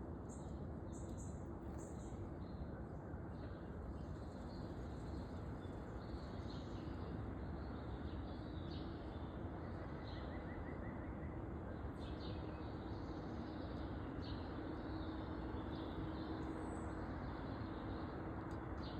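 Small backyard songbirds giving scattered short chirps and, about halfway through, a brief rapid trill, over a steady background noise. A faint steady hum comes in about two-thirds of the way through.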